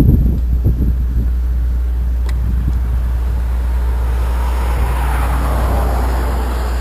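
A motor vehicle running with a steady low rumble, with a few knocks in the first second.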